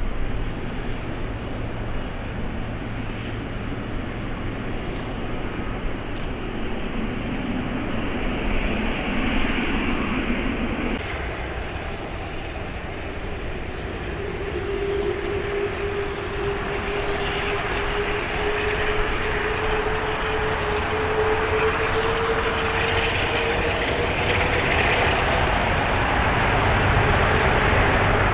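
Jet airliner's turbofan engines running at takeoff power: a broad rushing noise, joined about halfway by a steady tone that rises slightly, getting louder toward the end.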